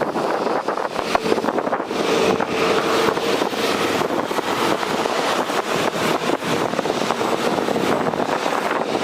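Jet airliner engines running, a steady noise with a faint held tone about two seconds in. Wind buffets the microphone throughout.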